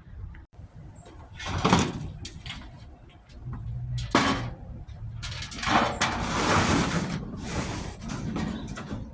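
Metal clanking and scraping from a furnace blower assembly being worked on by hand, in several irregular bursts, with a sharp knock about four seconds in.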